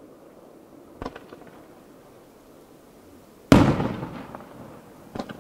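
Aerial firework shells bursting: a smaller bang about a second in, then a loud boom about three and a half seconds in that rumbles away over about a second, and another short bang near the end.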